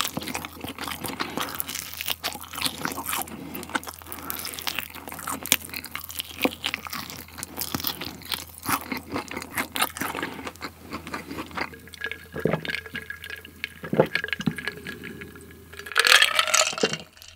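Close-miked wet chewing and smacking of sauce-coated yangnyeom fried chicken, with many small sticky clicks. It thins out about twelve seconds in, and near the end come a few louder gulps of a drink from a plastic cup.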